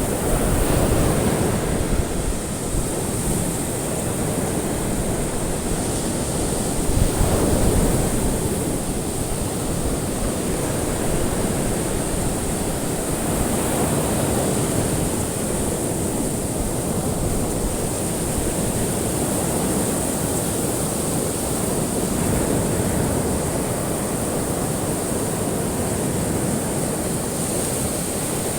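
Ocean waves washing onto a shore: a continuous surf wash that swells about every seven seconds.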